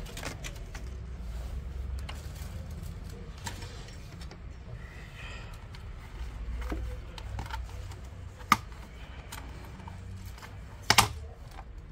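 Scattered light clicks and taps of small plastic and metal parts being handled inside an opened laptop, with two sharper clicks in the second half, the last near the end, over a low steady hum.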